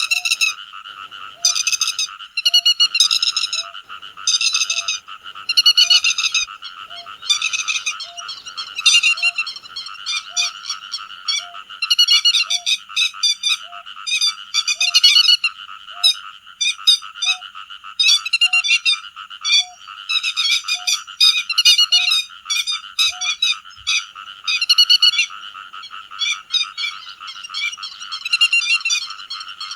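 Te vàng lapwing calling in loud, rapid, harsh bursts about once a second, over a continuous chorus that sounds frog-like and a soft short chirp repeating about once a second.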